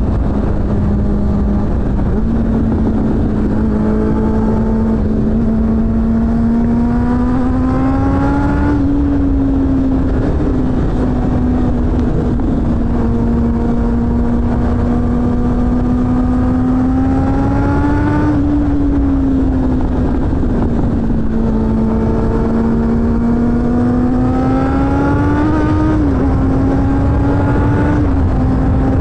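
Suzuki GSF600 Bandit's inline-four engine running hard through a BOS aftermarket exhaust while riding. The engine note climbs slowly and falls back three times, about 9, 18 and 26 seconds in, over a steady low rush.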